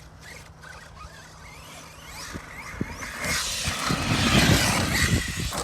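An Arma Mojave 6S RC truck's brushless electric motor whines in short rising revs on throttle blips. From about three seconds in comes a loud rough rush of tyres tearing through loose dirt.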